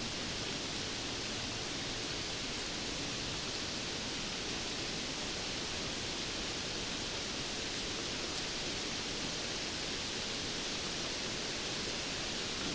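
Steady rainfall: an even, unbroken hiss with no separate drops, thunder or gusts standing out.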